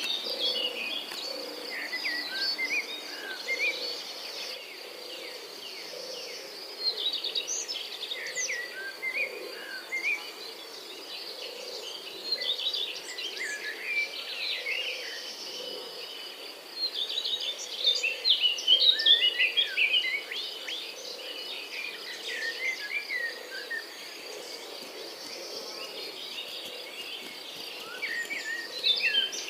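Songbirds chirping and singing in many short, quick notes over a steady high-pitched insect trill. The birdsong grows busier in the middle and near the end.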